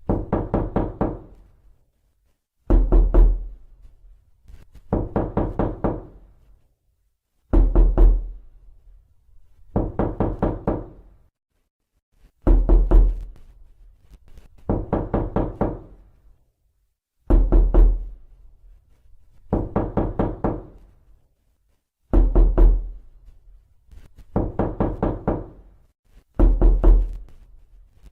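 Knocking on a door: bursts of five or six quick raps, each with a deep thud and a hollow ring, in pairs about two seconds apart. The pattern repeats about every five seconds.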